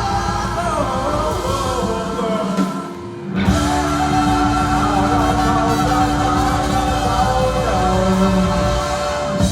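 Live rock band playing loud, with singing over it. The music dips briefly about three seconds in, then comes back with long held chords that drop off sharply at the very end.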